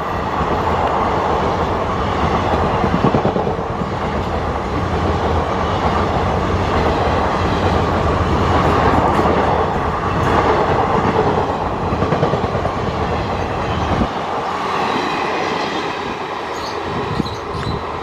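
A passing train: a steady rumble with wheels clattering over rail joints. The deep rumble drops away suddenly about fourteen seconds in. Faint wheel squeal follows near the end.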